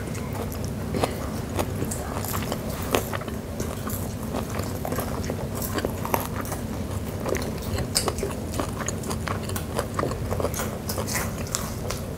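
Close-up chewing and crunching of crispy deep-fried chicken gizzards by several eaters, many small irregular crunches and clicks of the thin fried batter and the chewy gizzard.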